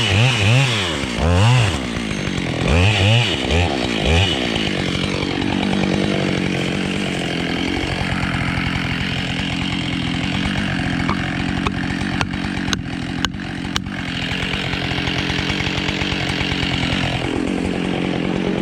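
Husqvarna 572 XPG two-stroke chainsaw blipped up and down several times, then held at full revs for about ten seconds as it cuts through beech wood, with a few sharp clicks midway, before dropping back toward idle near the end.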